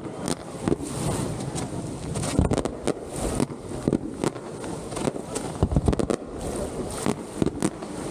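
Aerial fireworks display: a dense, irregular run of shell bursts and bangs over a continuous rumble of explosions.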